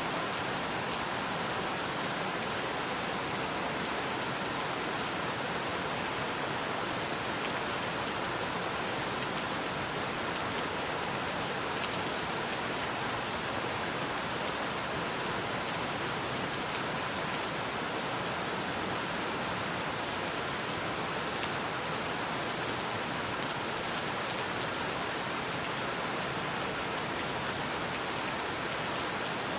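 Steady rain falling, a dense even patter of many small drops with no let-up.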